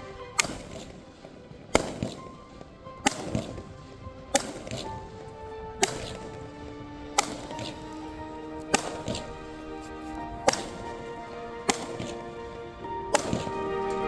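Consumer firework cake firing shot after shot: about ten sharp bangs, each with a short echo, spaced roughly a second and a half apart, over background music with long held notes.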